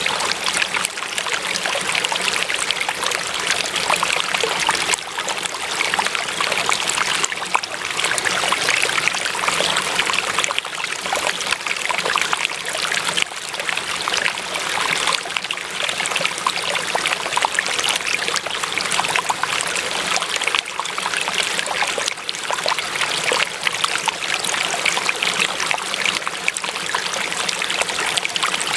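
Water trickling and splashing in a steady stream, a continuous bubbling rush with many small droplet sounds.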